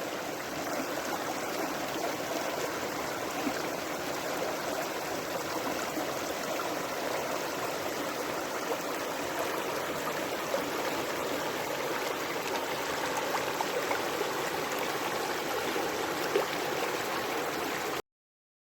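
Creek water rushing in a steady, even wash, starting and cutting off abruptly.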